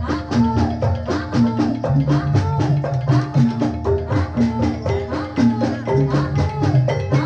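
Live Javanese jathilan accompaniment: drums and tuned percussion playing a quick, steady, repeating rhythm.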